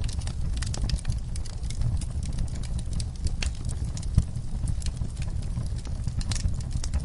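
Wood fire burning in a fireplace: a steady low rumble of the flames with frequent small crackles and pops, and one sharper pop about four seconds in.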